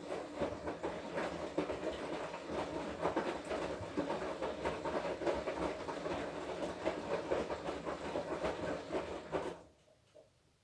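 Washing machine drum turning in the wash cycle, laundry tumbling and churning in the water with a steady motor hum. It stops abruptly near the end as the drum pauses.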